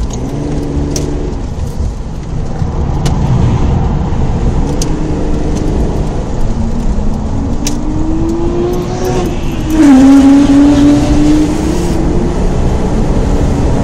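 Holden VT Commodore's 3.8-litre Ecotec V6 heard from inside the cabin, pulling hard with its pitch climbing for a few seconds, then dropping suddenly about ten seconds in as the four-speed automatic shifts up, after which it runs louder and steady. A few sharp clicks come through now and then.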